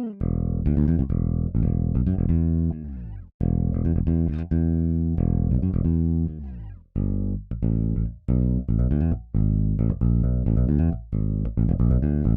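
Toontrack EZBass virtual electric bass playing a syncopated modern funk bass line from a MIDI pattern: short plucked low notes with brief gaps between them, and a short break about three seconds in.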